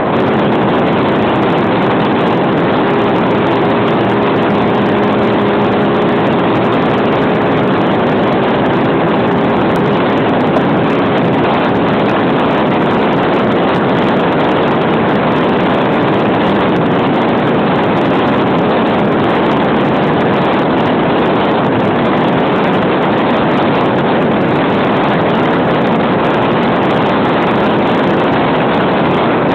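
Gambler bass boat running at speed: a loud, steady rush of outboard engine, water and wind, with a faint engine tone that stands out for a few seconds near the start and then sinks into the rush.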